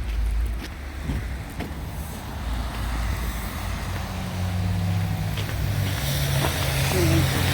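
A motor vehicle's engine running on the street, getting louder in the second half as it comes closer.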